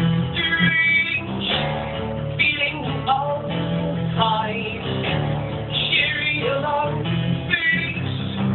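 Live band music with guitar playing.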